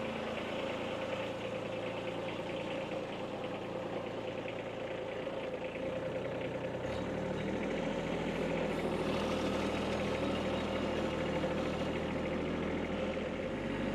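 Kubota tractor engine running steadily, its note changing about halfway through.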